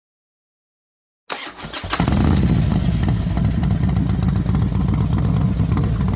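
Norton motorcycle engine starting up about a second in, stumbling briefly, then running steadily with a fast, even beat. It cuts off abruptly near the end.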